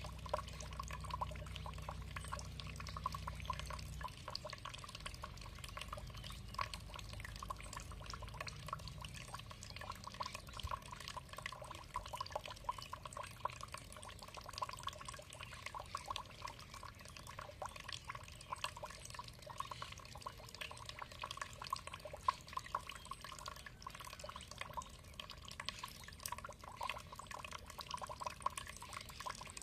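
Water trickling and splashing in a steady patter of many small drips.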